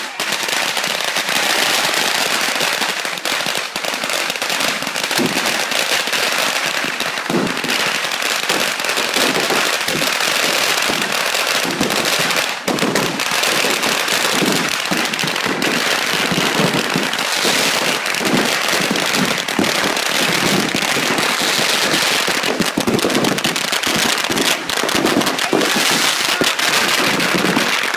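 A 15,000-shot firecracker belt going off in a continuous, rapid crackle of bangs with no letup.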